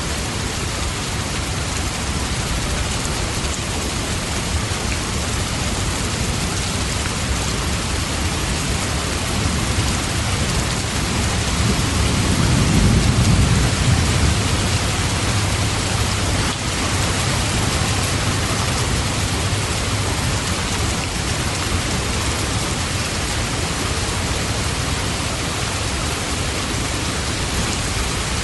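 Steady, heavy rain falling, a continuous hiss with a patter of drops. About halfway through, a low rumble of thunder swells and fades over a few seconds.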